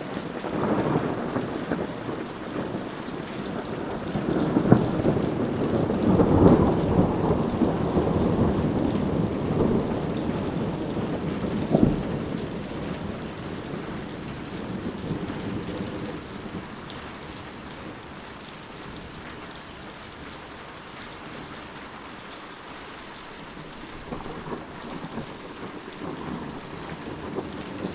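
Steady rain with rolling thunder. A long rumble builds and peaks in the first ten seconds, a sharp crack comes about twelve seconds in, and the thunder fades to rain alone, with a softer rumble returning near the end.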